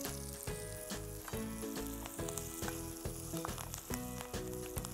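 Small onions, garlic and curry leaves sizzling in hot oil on a flat griddle while a spatula stirs them, with soft background music underneath.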